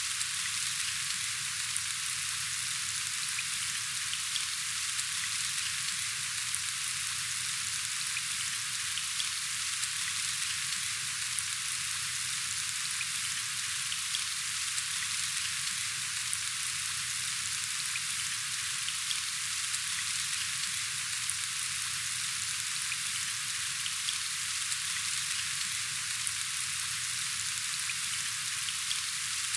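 Steady rainfall: an even hiss with scattered small drop ticks, unchanging throughout.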